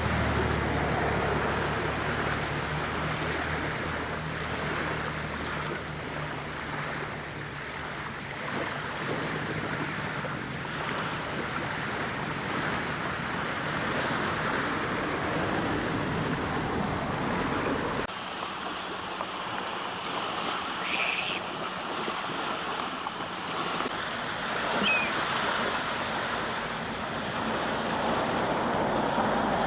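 Surf washing onto the beach with wind, a steady rush throughout. A low rumble fades out over the first several seconds. About 25 seconds in comes one short, high bird call.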